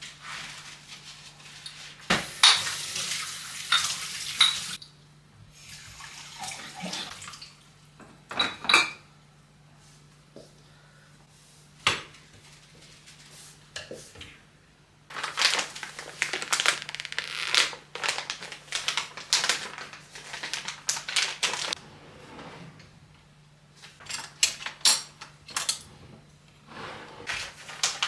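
Dishes and cutlery clinking and knocking as they are handled, with a tap running for a couple of seconds near the start.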